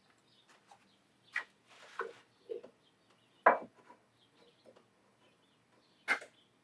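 Scattered knocks and clatters of small lawn mower engine parts and tools being handled and set down on a workbench, with a brief rub or wipe around two seconds in; the loudest knock comes about three and a half seconds in and another near the end.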